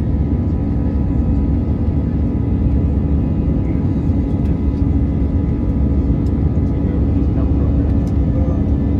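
Airbus A320 jet engines and airflow heard inside the passenger cabin: a loud, steady rumble with a steady hum running through it.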